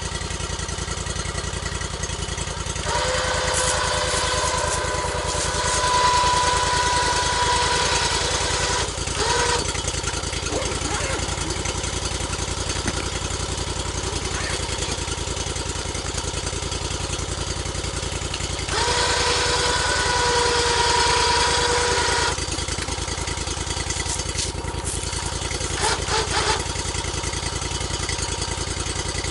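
Portable sawmill's engine running steadily at idle, with two stretches of a louder steady whine over it: one about three seconds in lasting some six seconds, and a shorter one near twenty seconds in.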